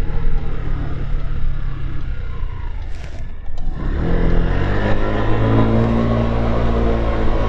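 Motorcycle engine heard from the rider's seat: running, dropping away briefly about three seconds in, then picking up again and running steadily louder under throttle.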